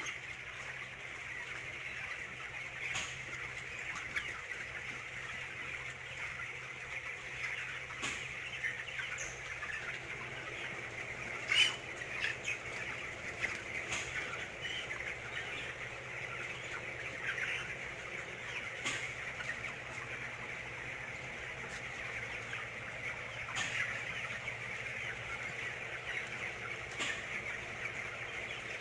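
Dense chatter of a large flock of chickens in a poultry house: a constant din of overlapping calls, with a low steady hum beneath and occasional short sharper sounds, the loudest about a dozen seconds in.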